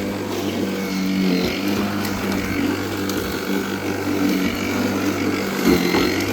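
Worx 40 cm cordless battery lawnmower running and cutting grass: a steady electric motor and blade hum over a hiss of cutting. The hum wavers briefly twice, about a second and a half in and near the end.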